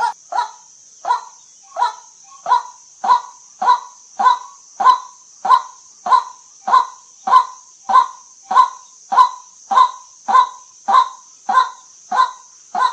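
White-breasted waterhen giving its repeated 'kwak' call, short sharp notes at an even pace of about one and a half to two a second, over a steady high hiss.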